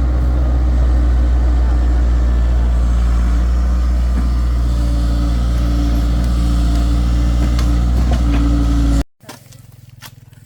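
An engine running steadily at a constant speed with a deep, even hum. It cuts off abruptly about nine seconds in, leaving a quiet background with a few sharp clicks.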